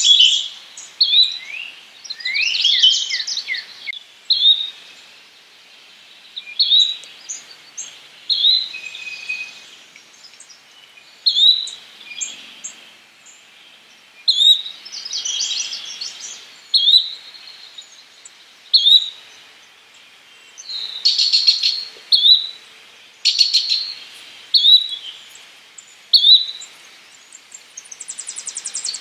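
Yellow-bellied flycatcher calling: a short rising whistled note repeated every second or two. Other birds' trills and buzzy songs break in several times.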